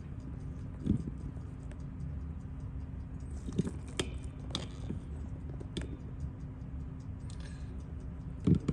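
Scattered small clicks and taps of watchmaker's tools and watch parts being handled on the bench, over a steady low background hum.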